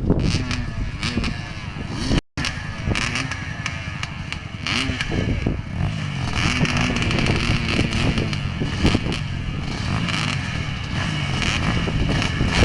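Dirt bike engine revving up and down repeatedly while riding, with a rattle of small knocks and a brief dropout about two seconds in.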